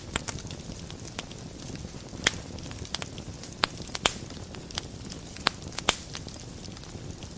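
Fire burning in a fireplace, crackling steadily with irregular sharp pops, a handful of them louder than the rest, over a low steady rush of flame.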